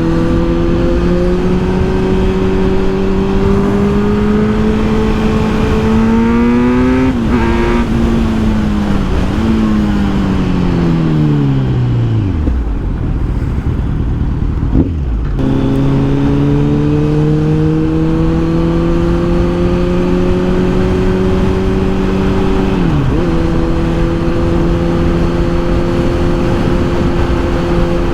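Kawasaki Z900's inline-four engine under way. The revs climb slowly, a gear change comes about seven seconds in, then the revs fall away for several seconds. About halfway through the engine picks up again and holds nearly steady, with another gear change near the end. Wind rushes on the microphone throughout.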